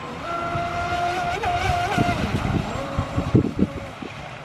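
Boat motor whining at a steady pitch, wavering briefly, then dropping to a lower, weaker whine about three seconds in. Irregular low knocks run underneath.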